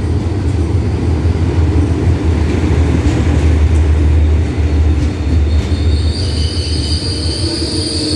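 Hitachi 4501 diesel-electric locomotive and its passenger carriages rolling slowly past as the special express pulls in to stop, with a loud, steady low diesel rumble. About six seconds in, a high thin squeal from the wheels joins in as the train slows.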